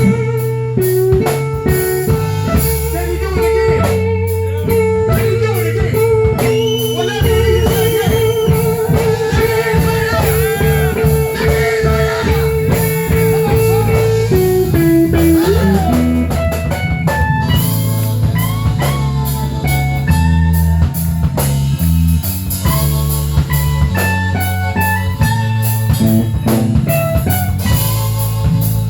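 Live blues band playing an instrumental break: guitar over bass and drum kit. The lead holds one long wavering note for about the first half, slides down, then plays short phrases.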